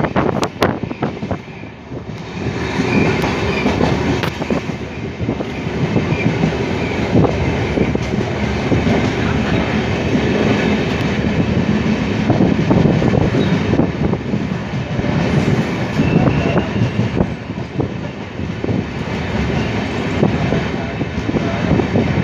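Passenger train running at speed, heard from an open coach doorway: steady rumble and rushing of the wheels on the track, with rapid clicking and clatter from the rails. It grows louder about two seconds in and then holds steady.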